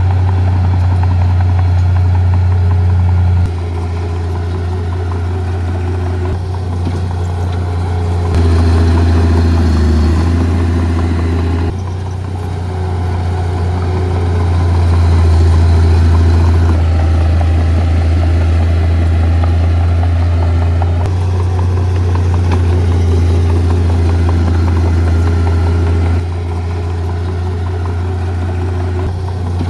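Heavy diesel earthmoving machinery running steadily with a deep engine hum, rising and easing with load around the middle, the sound shifting abruptly several times.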